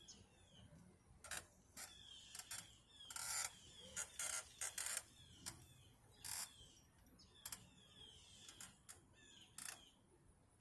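Shovel working in dirt: a string of irregular short scrapes and knocks, with two longer scrapes about three and four and a half seconds in.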